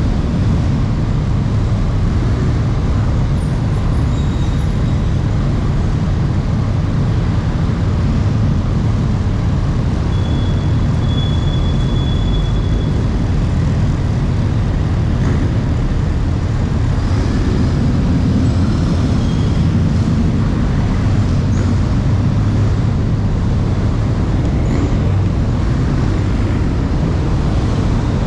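Steady, loud, low rumble of running vehicle engines and machinery, with a few faint brief higher tones over it and no clear revving.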